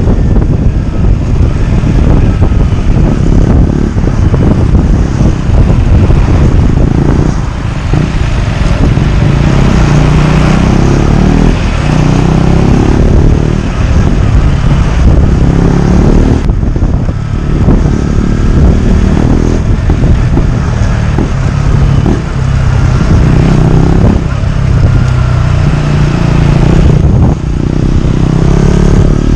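2018 KTM Duke 125's single-cylinder four-stroke engine running loud through a GPR exhaust with the dB killer removed, its revs climbing and dropping again several times.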